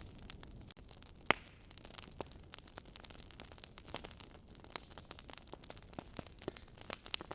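Wood fire crackling in a fireplace: irregular small pops and snaps over a low hiss, with one sharp, louder pop about a second in.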